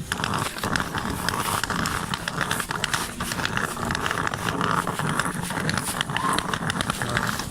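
Gusty wind buffeting the microphone: an uneven rumble with crackling that rises and falls.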